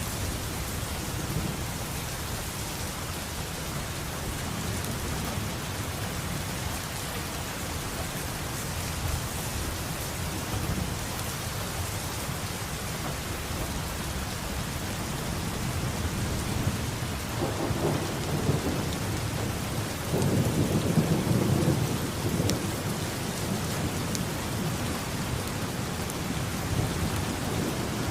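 Steady heavy rain with rolling thunder rumbling underneath, swelling into louder thunder rumbles a little past the middle.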